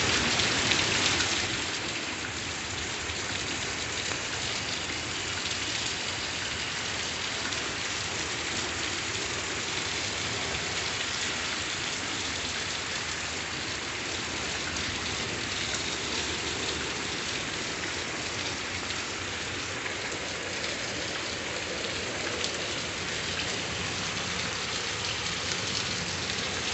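Heavy rain pouring down steadily, a torrential downpour. It is a little louder in the first second or two, then holds an even level.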